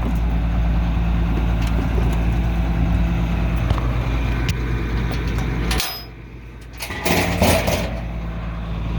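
Tractor engine running steadily. About six seconds in the sound drops away abruptly for about a second, then comes back with a short burst of clatter.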